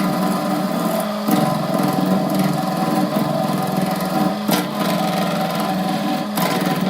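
Wood lathe's electric motor running steadily with a pitched hum, with three brief sharp sounds over it, about a second in, midway and near the end.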